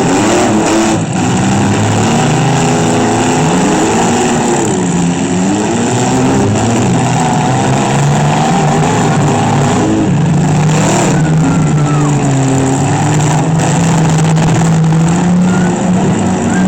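Engines of several demolition-derby vans, trucks and SUVs running hard and revving up and down together, with a few sharp knocks from the cars hitting.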